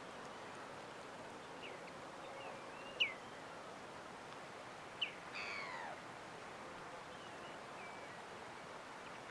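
Birds calling with short, high, falling chirps, a few seconds apart. The sharpest comes about three seconds in, and a longer falling call follows at about five and a half seconds. Beneath them is a steady soft hiss.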